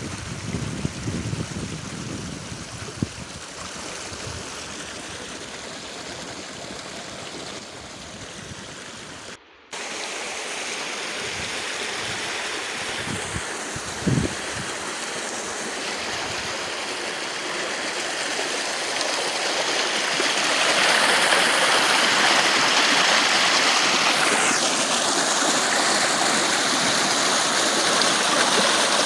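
Rushing water of a river or stream, a steady even rush. It drops out briefly about nine and a half seconds in and grows louder about twenty seconds in.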